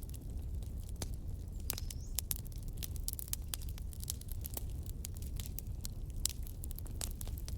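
Wood logs burning in a fireplace, crackling with irregular sharp pops and snaps over a low steady rumble of the flames.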